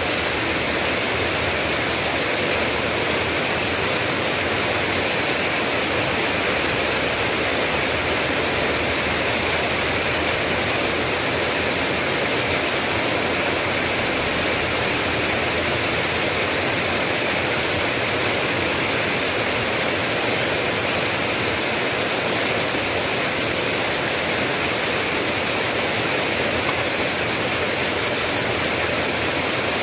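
Steady rain falling: a dense, even hiss of rainfall that keeps up without a break.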